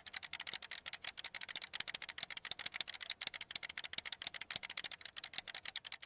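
A dense, rapid crackle of small sharp clicks, many each second, that starts and stops abruptly.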